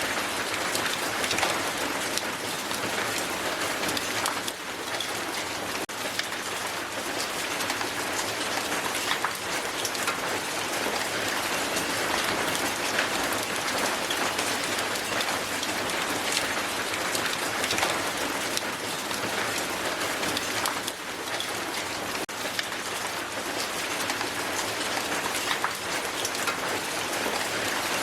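Hail falling hard and steadily, a dense continuous patter of many small ice impacts striking the ground.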